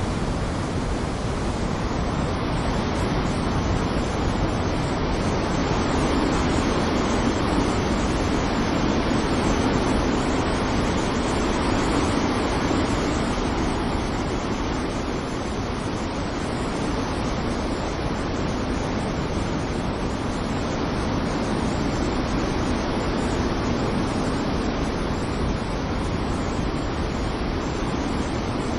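Stormy sea surf: a continuous roar of waves breaking, swelling and easing slowly, with no single distinct crash standing out.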